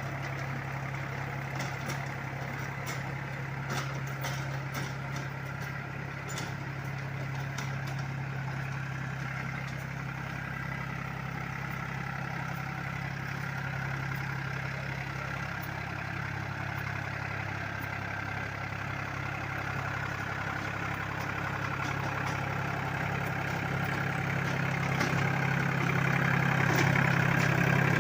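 Powertrac Euro 45 Plus tractor's diesel engine running steadily, growing louder over the last several seconds.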